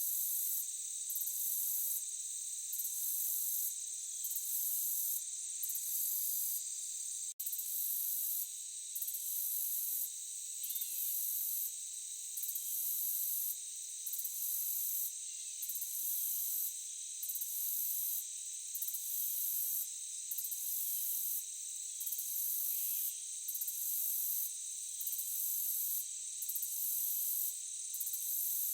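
Dense chorus of crickets and other insects: steady high-pitched trilling, topped by an even shriller layer that pulses on and off about every second and a half. The whole sound drops out for an instant about seven seconds in.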